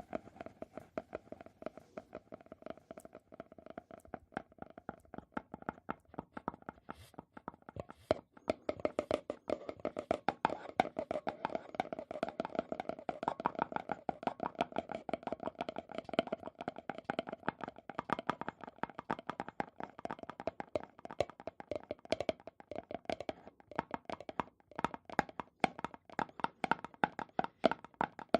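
Fast, continuous ASMR tapping, several taps a second, on an object that gives off a steady ringing note. The tapping grows louder about eight seconds in.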